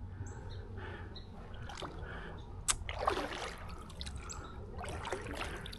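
Canoe paddle dipping and moving in the water: soft swishes and trickling drips, with one sharp knock about halfway through.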